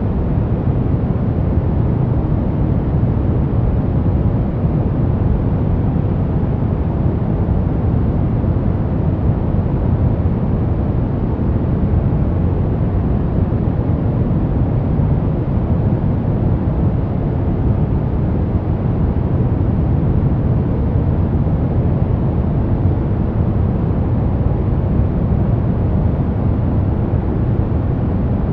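Steady synthetic noise for masking sleep disturbances, deep and rumbling with most of its weight in the low end, unchanging throughout: brown-noise-like rather than bright white noise.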